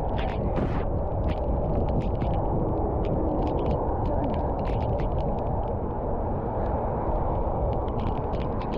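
Steady wind rushing over the microphone of a camera on a moving road bicycle, with many small sharp clicks scattered through it.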